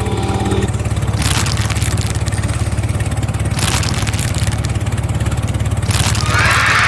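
A small engine running steadily with an even, rapid low pulse. Three brief hissing sweeps pass over it.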